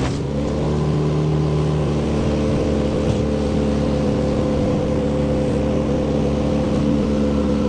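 Large wood chipper's engine running steadily, a continuous mechanical hum holding several steady pitches.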